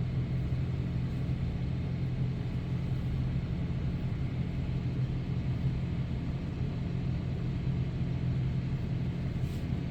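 Ram 3500 pickup's engine idling with a steady low hum.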